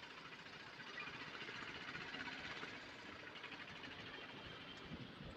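Faint, steady running noise of a 150cc motorcycle riding in slow city traffic: the engine ticking over low under a soft hiss.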